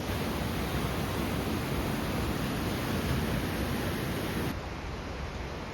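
A steady rushing noise with no distinct events. About four and a half seconds in it drops abruptly to a quieter, duller rush.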